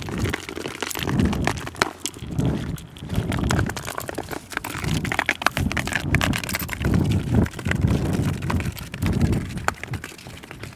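Footsteps of a person walking, about one step a second, with crunching and cracking underfoot.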